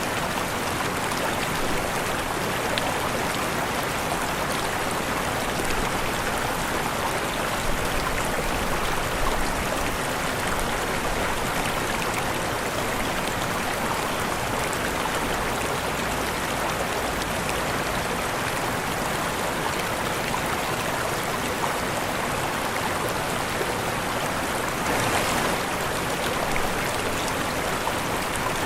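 Waterfall rushing: a steady, even wash of falling water, with a brief swell about 25 seconds in.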